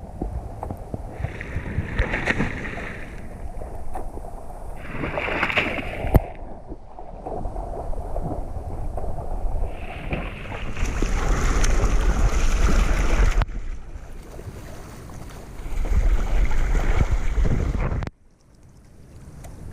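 A swimmer's splashing strokes through ocean water, with water and wind rumbling hard on the microphone. The sound drops suddenly to a dull hush twice, the second time near the end.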